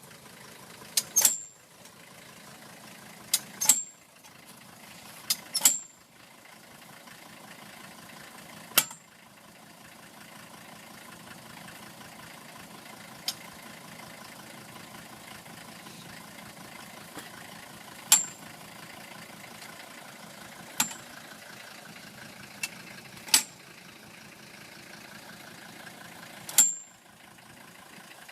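Diesel engine idling steadily, with about a dozen loud, sharp clicks or knocks at irregular intervals, several in quick pairs.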